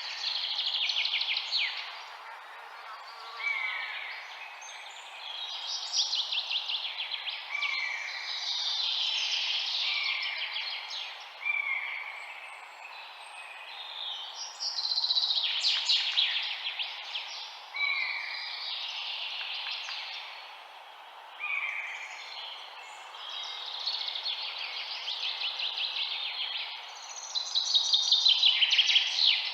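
Songbirds singing: trilled, chirping phrases that rise and fall, one every second or two and sometimes overlapping, over a steady background hiss.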